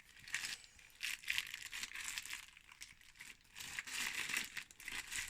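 Plastic packaging crinkling and rustling in irregular bursts as accessories are unwrapped by hand.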